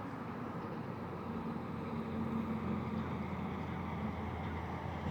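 Steady low engine hum of a vehicle, with a droning tone that grows a little stronger about a second in.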